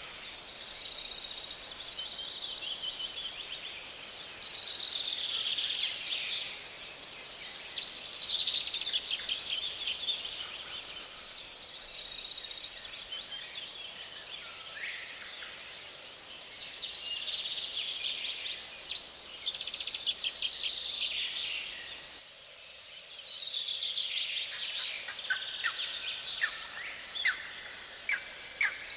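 Songbirds singing together: many overlapping chirps and quick trills, with repeated falling trilled phrases.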